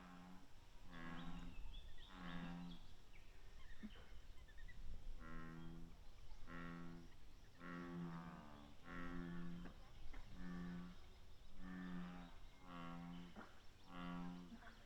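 A deep, moo-like animal call repeated about ten times, each call about half a second long and coming roughly once a second, with a short pause partway through.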